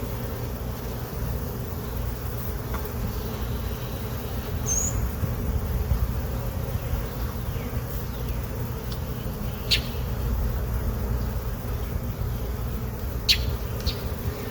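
Honey bees buzzing steadily around an opened hive during a frame inspection, with a couple of sharp ticks about ten and thirteen seconds in.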